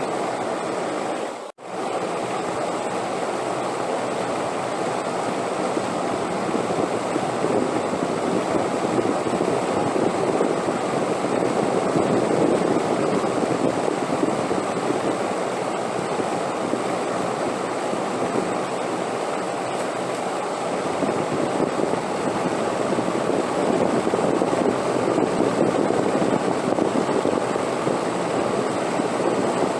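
Wind rushing steadily, swelling and easing slowly. It cuts out for a split second about a second and a half in.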